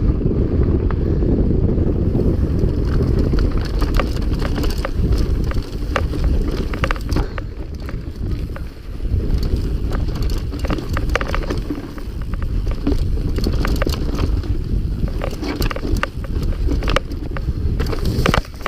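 Wind buffeting the microphone of a camera riding on a mountain bike, with frequent clicks and rattles of the bike over rough trail from about four seconds in.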